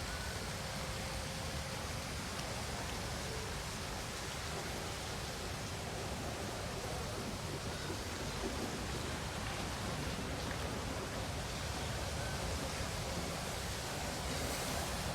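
Steady city street ambience: an even hiss with a low rumble underneath, with no distinct event standing out.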